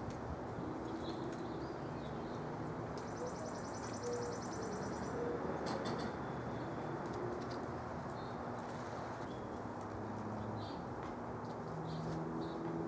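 Backyard birds calling: a rapid high trill about three seconds in that lasts about two seconds, and scattered short high chirps, over a steady low background hum.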